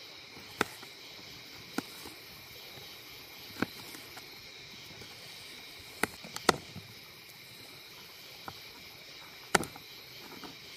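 A few scattered, sharp knocks and clacks of camp cooking gear being handled, about six in all, the loudest near the middle and near the end. Underneath is a steady, high chorus of insects.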